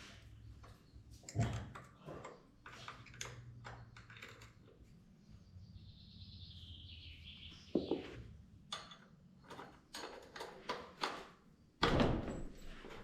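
Clicks, knocks and thumps of tools and parts being handled during motorcycle work. There is a short falling squeak about six seconds in, and the heaviest knock comes near the end.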